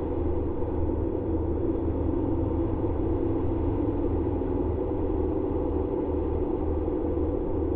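A steady low rumbling drone, even in level, with a faint pulsing in the deepest part.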